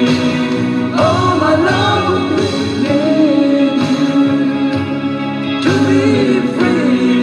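A male singer performing a slow pop ballad over band accompaniment, singing drawn-out phrases with long held notes.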